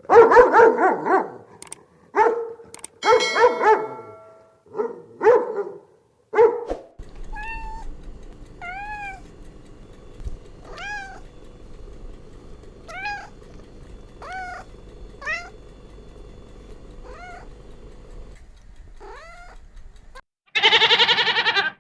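A string of animal calls: a run of loud, short pitched calls, then a cat meowing over and over, each meow rising and falling in pitch, and near the end a loud, wavering goat bleat.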